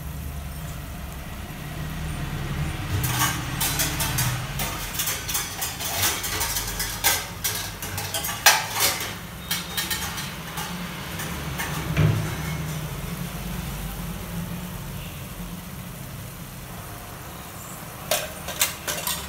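Thick onion-tomato masala paste frying in a stainless steel pan, spluttering with irregular pops and crackles over a low steady hum, the oil starting to separate from the masala. The pops come thickest in the middle, die down, and pick up again near the end.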